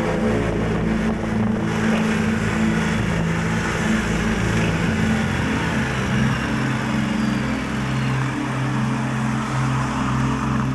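Yamaha Tracer 7 GT's 689 cc parallel-twin engine running as the motorcycle rides along, with wind buffeting the action camera's microphone. The engine note shifts about halfway through.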